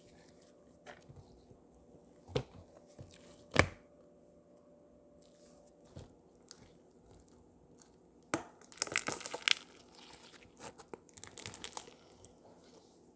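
Slime being squeezed and stretched by hand, giving sharp pops about two and a half and three and a half seconds in, a dense burst of crackling around nine seconds in, and scattered crackles after it.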